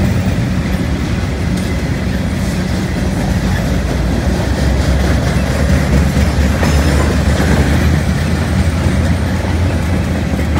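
Norfolk Southern freight train's gondola cars rolling past at close range: a steady, deep rolling noise of steel wheels on the rails.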